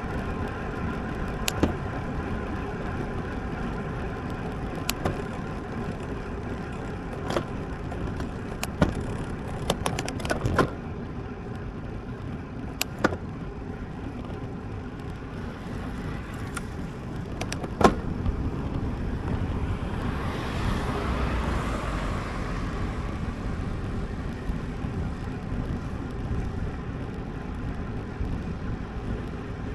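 Road bicycle riding: steady wind and tyre noise on the camera microphone, with occasional sharp clicks. A vehicle swells past about 20 seconds in.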